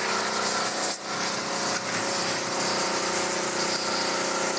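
Steam car-wash machine running and spraying dry steam: a steady hiss from the steam jet over the even hum of its pump and motor, with a brief dip about a second in.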